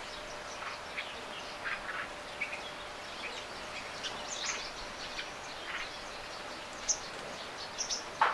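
Small birds chirping outdoors: short, scattered calls over a faint steady hiss, with a couple of sharper, louder chirps near the end.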